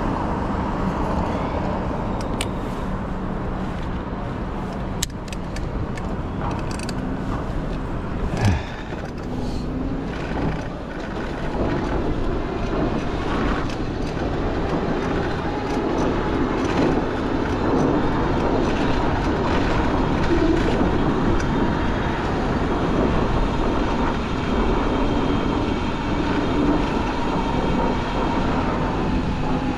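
City street traffic heard from a bicycle riding among cars and streetcars: a steady rush of vehicle and road noise, a few sharp clicks early on, and one loud knock about eight seconds in. A low steady drone from a vehicle builds through the second half.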